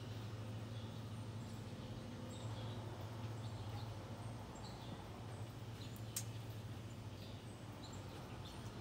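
Small birds chirping here and there over a low steady hum, with a single sharp click about six seconds in.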